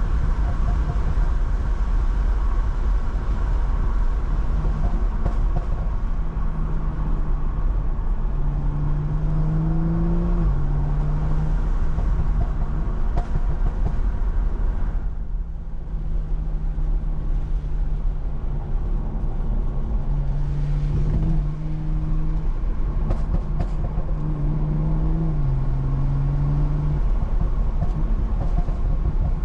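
Stage 2 tuned BMW M340i's turbocharged 3.0-litre inline-six pulling on and off the throttle. Its note rises under acceleration and steps down at gear changes, over a steady low rumble of tyre and road noise on a wet road.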